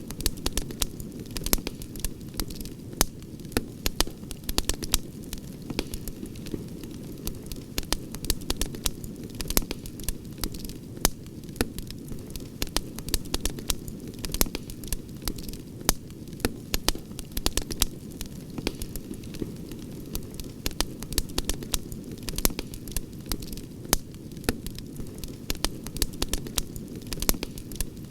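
Campfire burning, with frequent irregular sharp pops and crackles, several a second, over a steady low rushing noise.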